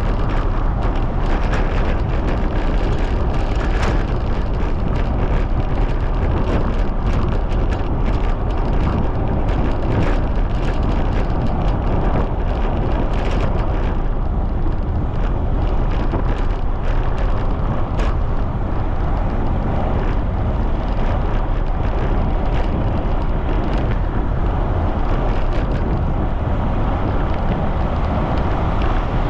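Strong wind buffeting the microphone of a camera on a moving bicycle, a loud steady rumble with many small clicks and knocks throughout.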